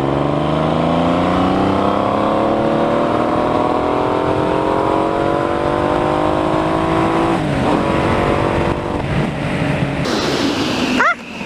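Triumph Legend 900 TT three-cylinder engine pulling under acceleration, its pitch climbing steadily for about seven seconds. The pitch then dips briefly and runs more level. Near the end the engine sound drops off sharply and a couple of short chirps sound.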